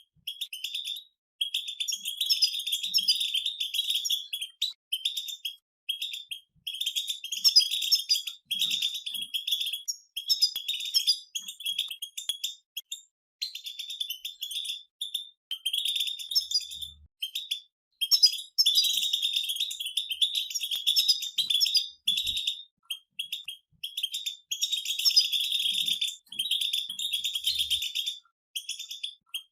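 A group of European goldfinches twittering: rapid, high chattering phrases in bursts of a few seconds, broken by short pauses.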